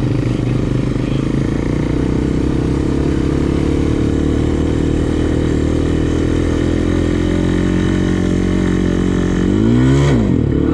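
Honda TRX400X ATV's single-cylinder engine running steadily at low speed, creeping up slightly in pitch. About ten seconds in it gives a quick, louder throttle blip that rises and falls.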